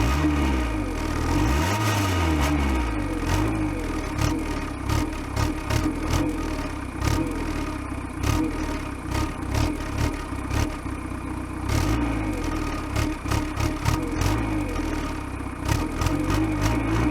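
Diesel car exhaust running right at the tailpipe, with the exhaust gas pulsing and buffeting against the microphone. The engine speed rises and falls briefly in the first few seconds.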